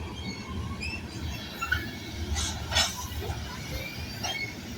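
Long freight train's cars rumbling low with scattered metallic clinks and squeaks, and a sharper clank a little past halfway, as the train comes to a quick stop.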